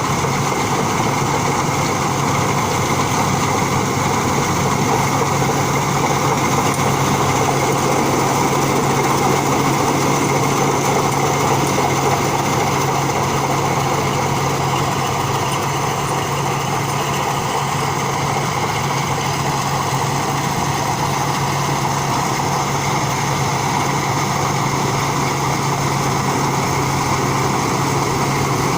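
Rice combine harvester running steadily, its engine holding a constant pitch under a dense mechanical din.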